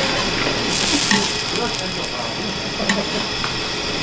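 Steady sizzling hiss of food frying, which swells briefly about a second in, with a few light clicks.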